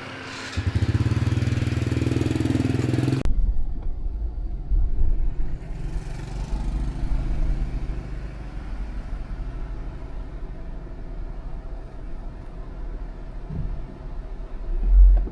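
A steady, loud low mechanical hum with a buzzing edge for about three seconds, cutting off abruptly. A low, uneven rumble of vehicle and road noise follows, with a heavy low thump near the end.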